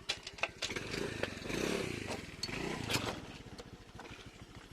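Tuned Yamaha Jupiter motorcycle engine, enlarged to 130 cc, revving up and dropping back twice, then running lower near the end.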